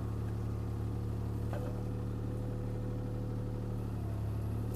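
CAT 303C CR mini excavator's diesel engine running steadily. A faint tick about a second and a half in, after which a thin steady whine joins until near the end.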